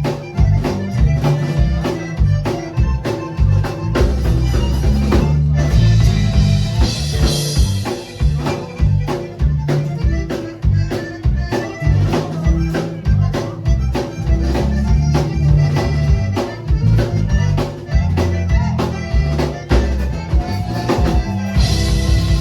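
Live band music: an accordion playing over drum kit, bass and guitar at a steady beat, with cymbal crashes twice.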